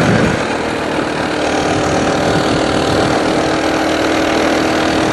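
Coleman BT200X mini bike's small single-cylinder four-stroke engine running steadily under way, a super buzzy drone with a steady pitch that dips slightly in level about half a second in.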